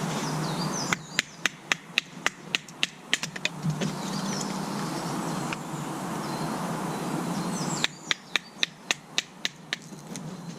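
A rapid, evenly spaced series of sharp knocks, about four a second, in two runs separated by a few seconds' pause, with a few high bird chirps.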